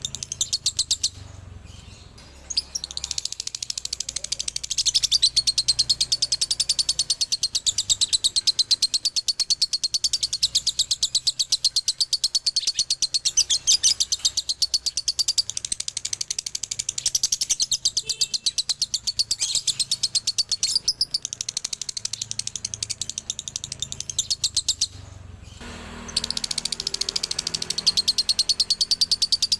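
Male lovebird singing a long, rapid, high-pitched chatter (ngekek), broken by two short pauses, one near the start and one near the end.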